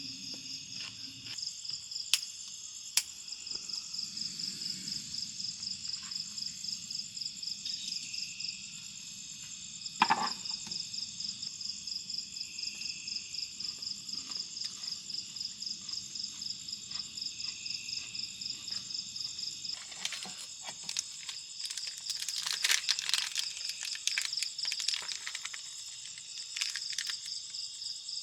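Chorus of forest insects chirping in a steady, high-pitched drone that pulses about three to four times a second. A few sharp clicks cut in, and a few seconds of crackling clicks come about twenty seconds in.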